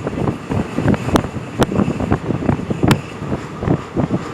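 A moving vehicle's ride noise, a dense irregular rattle and rumble with wind buffeting the microphone, and a few sharp clicks over it.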